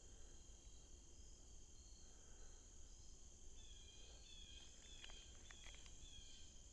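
Near silence of the woods: a faint, steady high insect drone, with short high chirps repeating through the second half.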